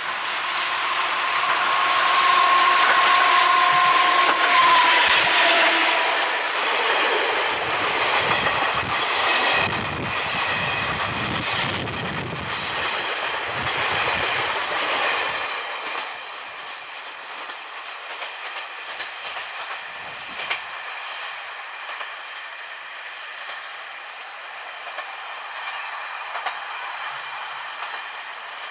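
A passing train sounds its horn, a long two-note blast that drops in pitch as the train goes by. The cars then rattle past over the rail joints for about ten seconds before the sound fades.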